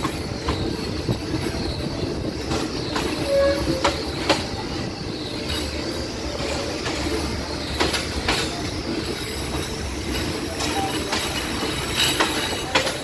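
Third-class passenger train rolling slowly along a station platform, heard from an open carriage window: a steady rumble of the carriage, with wheels clicking and knocking over rail joints every second or so and a few brief wheel squeals.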